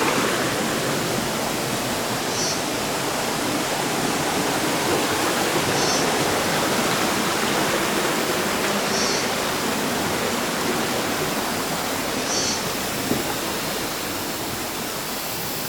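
Shallow water rushing and cascading over rocks, a steady rushing noise that eases slightly near the end. A faint short high chirp repeats about every three seconds over it.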